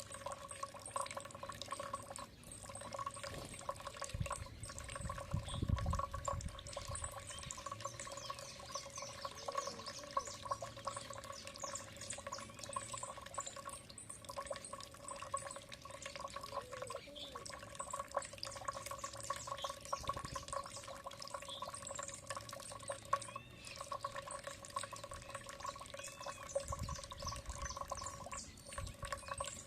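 Water trickling and dripping over a steady hum, with a few faint bird chirps about three-quarters of the way through and a couple of brief low rumbles.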